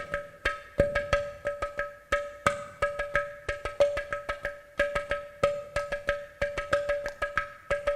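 Ghatam, the South Indian clay-pot drum, played in a quick, uneven rhythm: sharp strokes, several a second, each ringing with a clear pitched tone.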